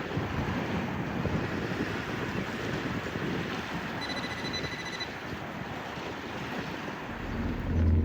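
Wind buffeting the microphone over the wash of sea waves at a harbour: a steady, rough rushing noise. A faint thin whistle comes in briefly about four seconds in, and a deep low rumble swells near the end.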